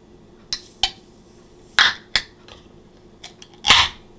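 A beer being opened: a couple of small clicks, then two short, sharp pops of escaping gas about two seconds apart, with light clicks and taps between them.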